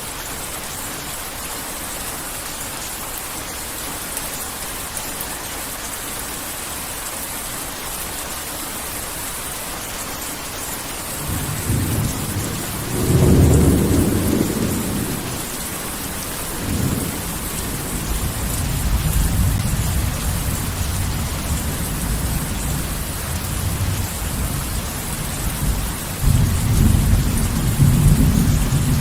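Heavy rain falling steadily. Rolling thunder starts about a third of the way in, with one loud crack and rumble, then more rumbling that swells again near the end.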